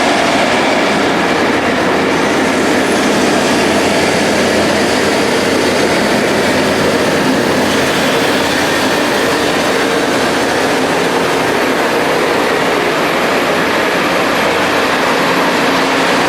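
A rail grinding machine at work, its grinding wheels on the railhead making a loud, steady grinding noise.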